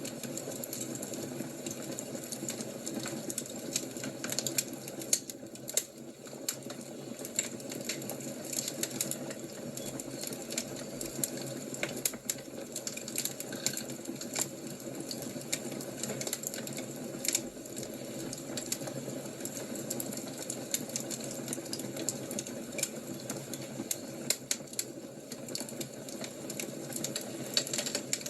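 Wood fire crackling: irregular sharp pops and snaps over a steady rush of the flames.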